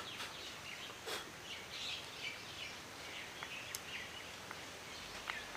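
Faint birds chirping in the background, scattered short calls, with a few faint clicks.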